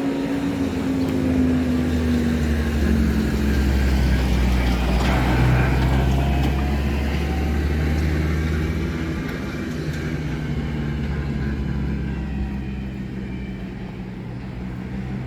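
A motor vehicle's engine running close by, a steady hum whose pitch slowly falls as it passes, loudest in the middle and easing off toward the end.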